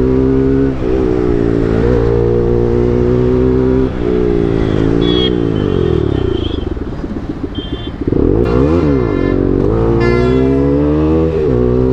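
Bajaj NS200's single-cylinder engine through an Akrapovic full-system exhaust, under way at steady revs. About halfway through the revs fall away and it goes quieter on a closed throttle for a few seconds, then it pulls hard again with rising revs about eight seconds in.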